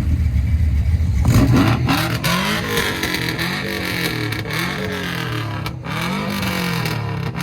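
A car engine rumbling low at first, then revved again and again from about a second in, its pitch rising and falling roughly once a second.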